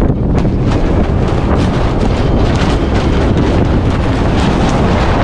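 Strong wind buffeting the microphone: a loud, steady low rumble broken by many brief sharp bumps.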